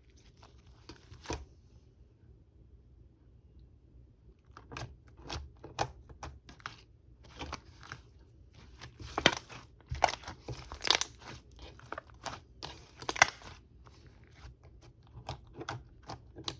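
Creamy slime being pressed, stretched and pulled apart by hand, giving sharp crackles, pops and tearing sounds. It is quiet for the first few seconds, then the crackling builds and is loudest in the middle.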